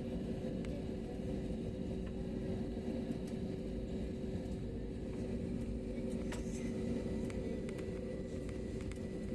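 Airliner cabin noise while taxiing before takeoff: a steady low rumble from the engines and air system, with a constant hum over it.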